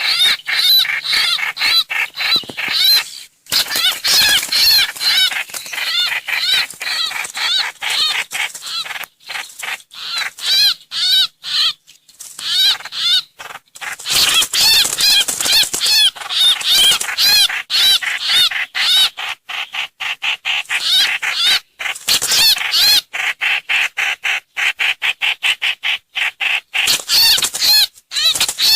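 Trao trảo (hoành hoạch) bird lure recording: fast, continuous chattering calls made of rapid wavy chirps in quick runs, broken by brief pauses.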